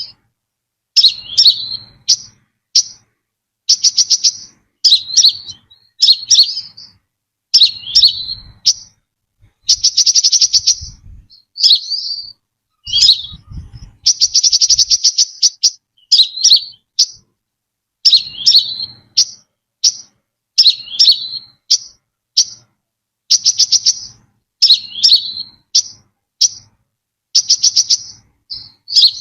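Brown-throated sunbird singing a repeated song, one high-pitched phrase every second or two. Each phrase is a fast trill of ticking notes or a few short, sharp falling notes.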